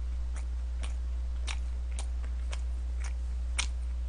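A person chewing food with the mouth closed: faint wet clicks about twice a second. A steady low electrical hum underlies it and is the loudest sound.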